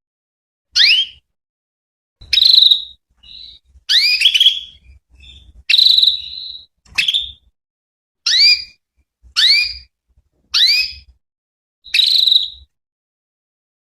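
Female canary calling: about ten short whistled chirps, each a quick rising sweep, repeated every second or so. Some calls are held a little longer on one pitch.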